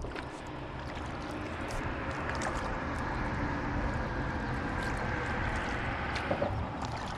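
Water rushing and gurgling around a kayak running through a shallow riffle, with a few light knocks.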